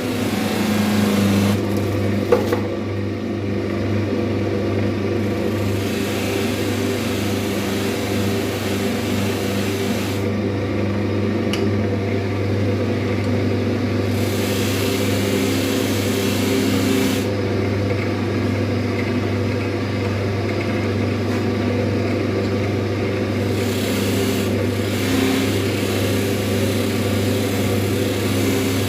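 Variable-speed lathe running steadily, spinning a cotton buffing wheel charged with polishing compound, as a chisel bevel is held against the wheel in spells, adding a rubbing hiss that comes and goes several times. A single sharp click about two seconds in.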